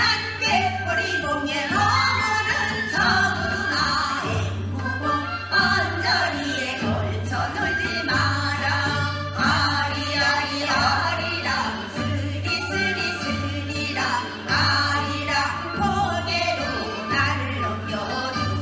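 Gyeonggi minyo, Korean folk singing in the Gyeonggi sori style: a sung melody with a wavering, heavily ornamented vocal line over continuous musical accompaniment.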